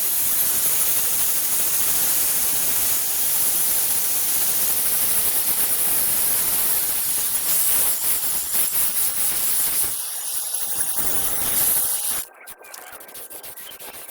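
Loud, steady hissing noise, heavy in the highs, that cuts off abruptly about twelve seconds in, leaving a quieter background.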